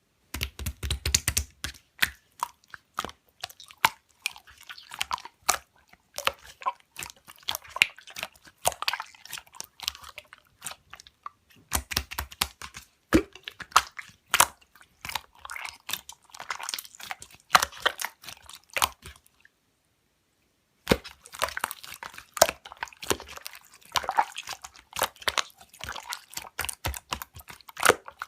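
Rapid, irregular clicking of typing on a computer keyboard, in runs, with a pause of a second or so about two-thirds of the way through.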